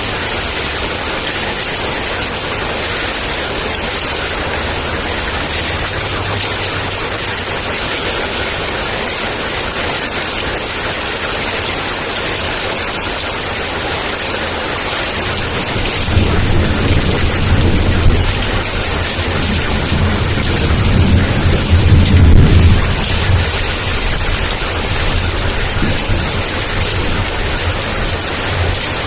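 Heavy rain pouring down in a steady hiss. About halfway through, a low rumble of thunder swells, peaks and fades away.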